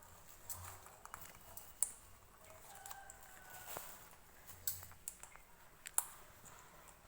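A pet eating sugar: scattered sharp clicks and crunches of chewing, a handful over several seconds, the strongest a little under two seconds in and near the end.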